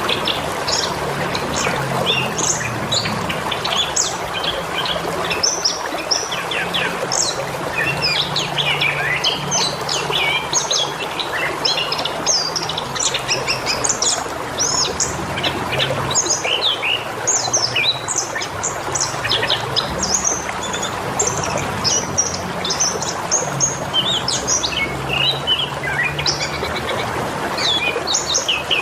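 Many birds chirping and calling, with dense overlapping short chirps and trills, over a steady hiss and low hum.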